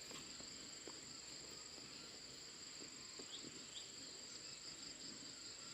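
Faint, steady chorus of insects trilling at two high pitches, typical of crickets, with a few faint short chirps a little past the middle.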